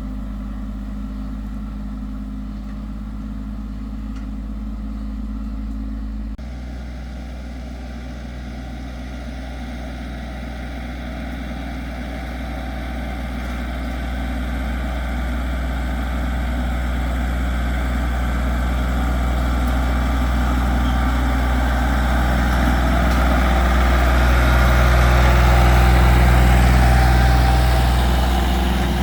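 Tractor engine running steadily. The sound changes abruptly about six seconds in, then grows gradually louder, peaking near the end before easing off.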